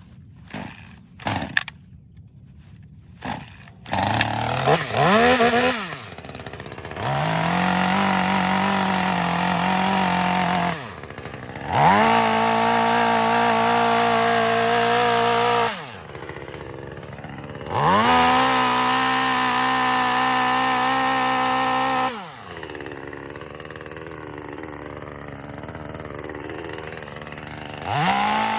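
Gasoline chainsaw: a few sharp clicks, then the engine starts about four seconds in and is revved repeatedly in bursts of a few seconds, dropping back to idle in between.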